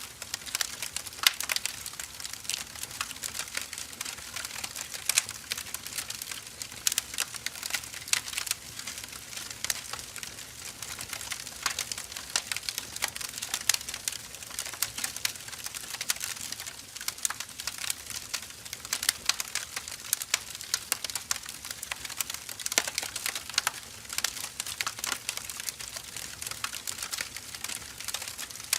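Wood fire burning: firewood logs crackling and popping, with sharp irregular snaps over a steady hiss of flame.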